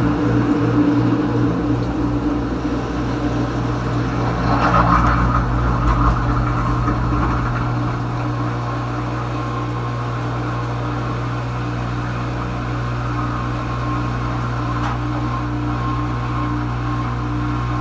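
Kenmore Ultra Wash 3 dishwasher running mid-cycle: a steady motor hum with a rushing noise over it. The rushing grows louder about four seconds in and settles back to a steadier, slightly quieter level by about eight seconds.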